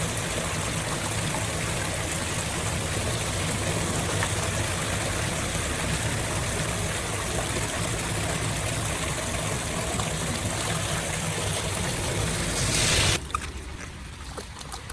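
Steady rush of water flowing into a cleared storm drain. It swells briefly near the end, then cuts off suddenly, leaving a quieter background with a few sharp clicks.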